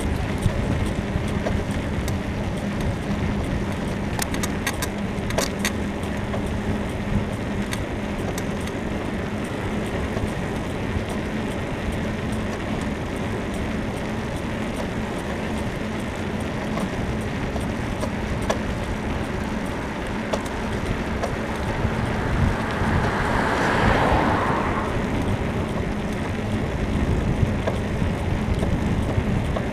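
Bicycle riding along a road: steady noise of tyres and wind, with a car passing that is loudest about 24 seconds in, and a few sharp clicks around five seconds in.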